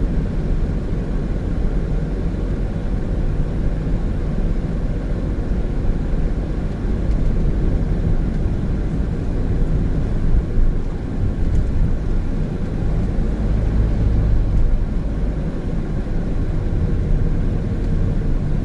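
Steady low road and engine rumble of a Honda N-BOX Custom kei car with a 660cc turbo engine, heard from inside the cabin while driving.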